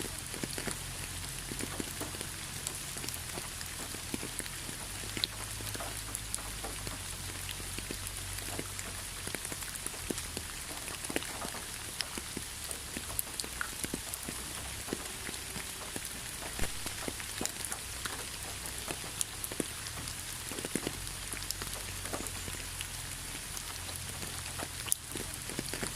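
Steady rain falling, a continuous hiss with many separate drop hits clicking out over it.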